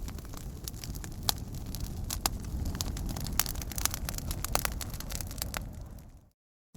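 Wood campfire burning: sharp crackles and pops of burning wood, irregular and scattered, over a steady low rumble of the flames. The sound fades out and drops to silence a little after six seconds in, then comes back just at the end.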